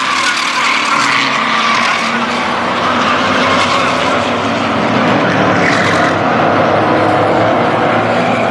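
Several oval-track race trucks' engines running together at racing speed, loud and continuous with no breaks.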